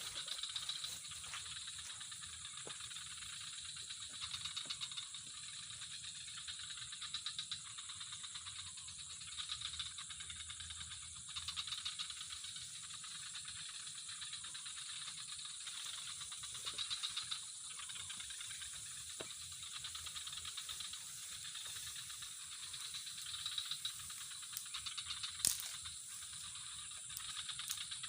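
Insect chorus: a steady high-pitched trill over fast, pulsing chirring that swells and fades every few seconds. There is a single sharp click near the end.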